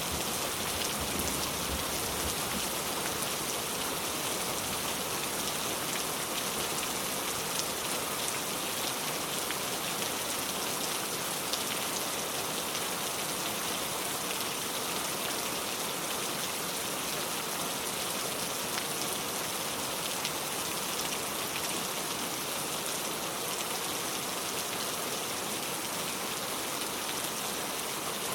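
Steady rain falling on a car, with fine drops ticking on the bodywork.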